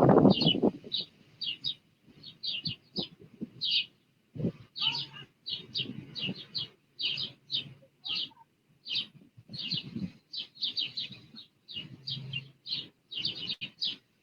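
Small birds chirping: short, high chirps repeating in quick clusters. A burst of low rushing noise is loudest in the first second.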